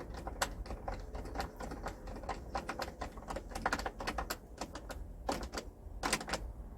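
Irregular light clicks and taps, several a second, from small hardware and hand tools being handled during a shelf installation, over a low steady hum.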